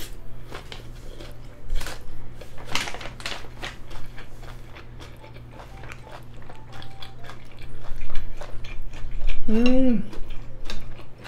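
Close-miked chewing of a perilla-leaf wrap of grilled pork intestine and rice: many short wet clicks and smacks. About nine and a half seconds in comes a short, pleased hummed "mmm" that rises and falls.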